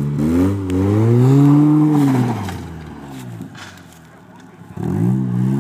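Mazda car engine revving hard under load on a hill-climb attempt: the pitch climbs, holds and falls away over about two and a half seconds, then rises and drops again briefly near the end.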